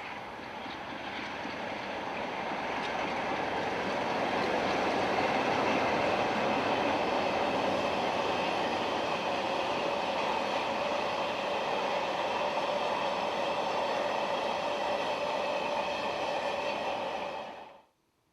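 Class 47 diesel locomotive working a train past, engine and wheels on the rails. It grows louder over the first few seconds, holds steady, then cuts off suddenly near the end.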